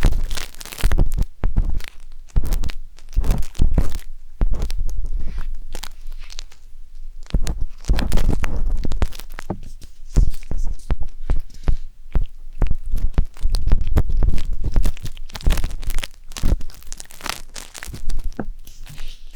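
Close, irregular scraping and crackling as wooden sticks rub and scrape inside the silicone ears of a 3Dio binaural microphone, with short rustling strokes and soft thuds against the mic.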